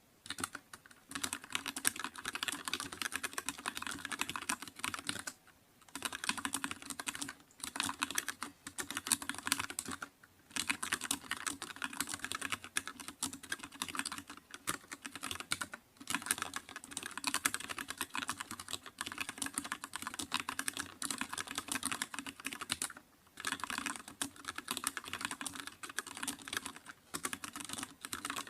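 Typing on a computer keyboard: a fast, continuous run of key clicks, broken every few seconds by a brief pause.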